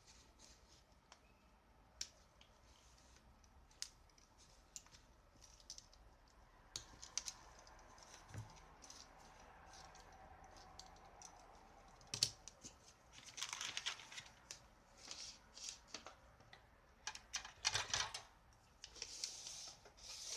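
Small hand-work noises at a workbench: scattered light clicks and taps, with short scraping or rustling bursts about thirteen and eighteen seconds in.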